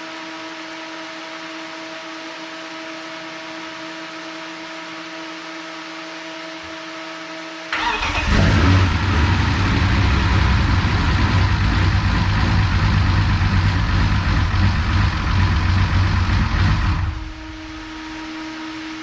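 Turbocharged BMW S52 straight-six in an E36 on its first start after the build: a steady hum, then about eight seconds in the engine cranks and fires, runs for about nine seconds and cuts off, back to the hum. It builds fuel and oil pressure and seems to want to stay running.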